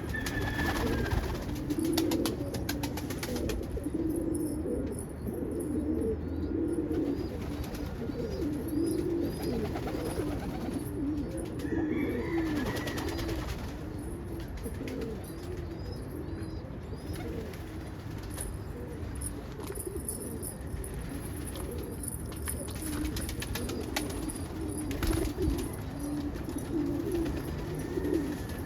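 A flock of pigeons cooing, many low calls overlapping without a break, with a few faint high chirps from smaller birds.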